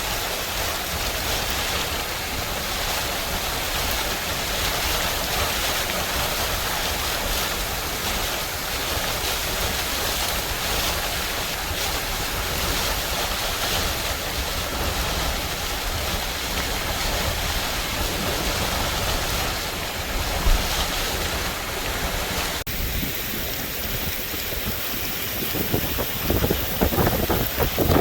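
Hurricane wind and heavy rain: a steady rushing noise with wind buffeting the microphone. The sound changes abruptly about three quarters of the way through, and after that the gusts strike the microphone in heavier, uneven blasts.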